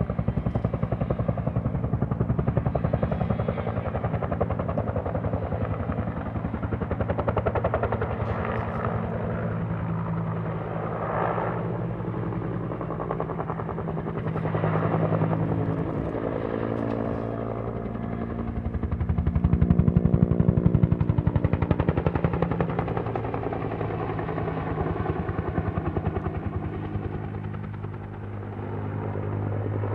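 Helicopter flying over, its rotor chopping rapidly over a steady engine hum. It grows loudest about twenty seconds in, with its pitch dropping as it passes.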